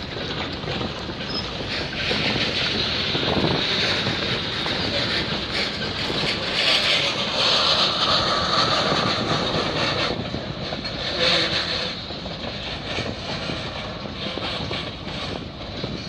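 Freight train of tank cars and covered steel-coil cars rolling slowly past, its steel wheels running on the rails. The sound gets louder in the middle as the cars pass nearest.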